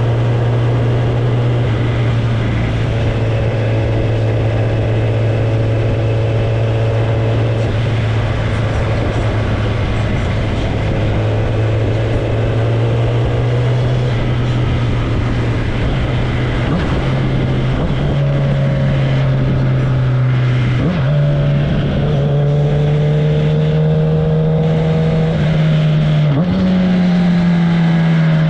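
Kawasaki ZX-10R's inline-four engine, exhaust run without its tailpipe, heard onboard while riding at steady revs. About halfway through, the engine note climbs in a few steps, each with a brief dip, under a steady rush of wind and road noise.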